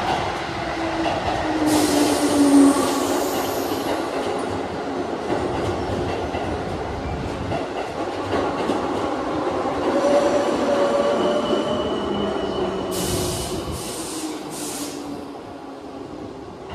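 Keihan Railway commuter train running through an underground station, a loud, steady rumble of wheels on rail with drawn-out squealing tones. Short bursts of hiss come about two seconds in and again near the end as three quick hisses, and the sound fades away at the very end.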